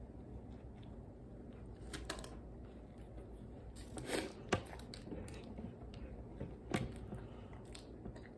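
Close-up chewing of a chicken burger, with a few sharp wet mouth clicks and smacks scattered through, over a low steady hum.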